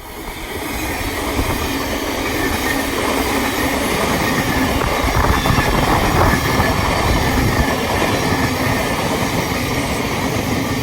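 Thameslink Class 700 electric multiple unit passing, a steady rush of wheels on rail that builds over the first second or so and then holds.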